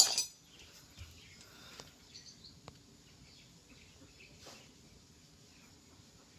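A brief loud noise at the very start, then faint outdoor background with scattered bird chirps and a few light clicks.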